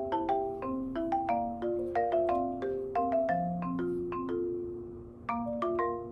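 Background music: a light melody played on a marimba-like mallet instrument, several struck notes a second with a brief lull just before the last second.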